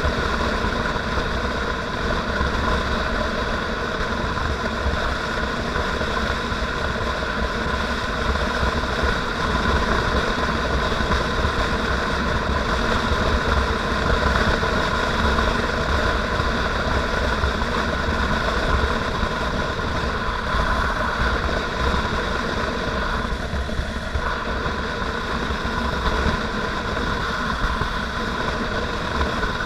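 Motorcycle engine running at a steady pitch while riding, with a constant low rumble underneath.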